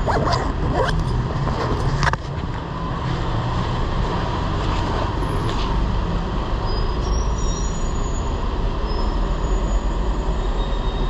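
Steady street traffic noise with a deep rumble, with a few short clicks and knocks in the first two seconds.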